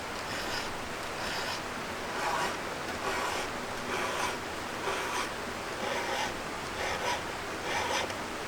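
Round file being pushed across the cutting teeth of a chainsaw chain, a rasping stroke about once a second, ten or so strokes in a row.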